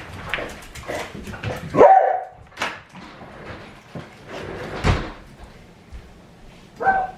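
Pet dog barking a few times in short, separate barks.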